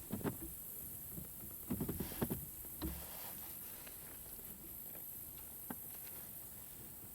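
Light knocks and taps from gear on a fishing kayak: one short cluster at the start, another about two seconds in, and a single tick near the end.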